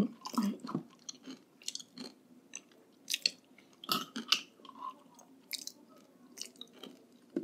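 Food being chewed close to the microphone: a scatter of short, irregular mouth clicks and chewing noises.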